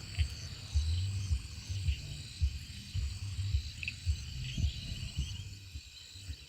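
Night-time insect chorus of crickets: steady high-pitched trilling with a few short chirps and a brief trill in between, over irregular low thumps and rumble on the microphone.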